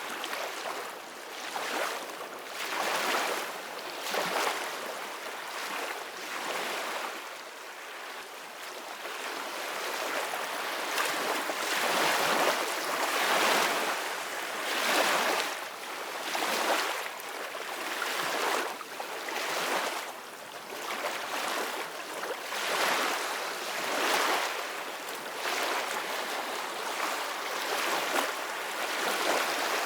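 Ocean waves washing and breaking, in a continuous rush that swells and ebbs every second or two, with wind.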